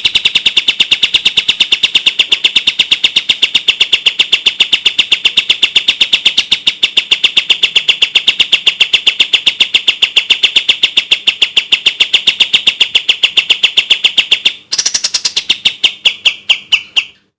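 Kapas tembak bulbul singing its rapid 'tembak' song: a dense, even run of short high notes, about ten a second, kept up without a break. About fourteen and a half seconds in it breaks off briefly and resumes as a slower, spaced-out run of notes that stops just before the end.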